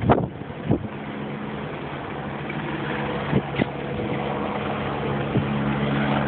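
A motor engine running steadily with a low hum, slowly growing louder, with a few faint knocks.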